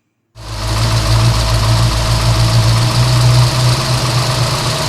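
A steady engine-like idling drone with a strong low hum, starting abruptly about a third of a second in.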